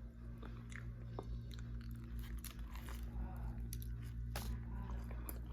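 Close-up chewing and biting of a Subway sandwich, heard as irregular small crunches and clicks, over a steady low hum.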